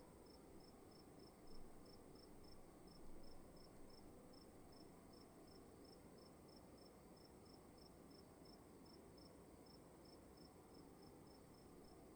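Crickets chirping faintly: one chirps in an even rhythm of about three chirps a second over a steady, higher continuous trill, with a low hiss of room tone beneath.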